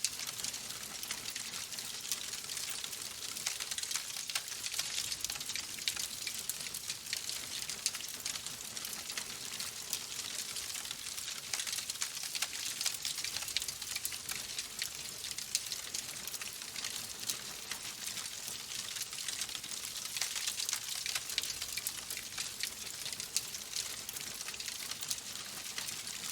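Logs burning in a fireplace, crackling steadily with a dense stream of small pops and snaps over a hiss.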